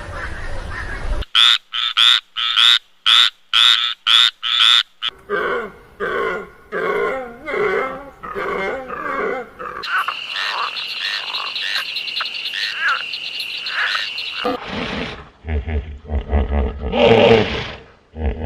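A run of animal calls that changes several times, opening with about nine short calls repeated in quick succession, then longer pitched calls, and one loud call near the end.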